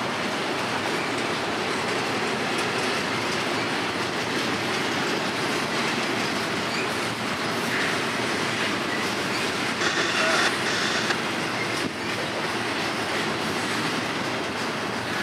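Double-stack container freight train rolling past: the steady rumble and clatter of well-car wheels on the rails. A brief high-pitched wheel squeal comes about ten seconds in.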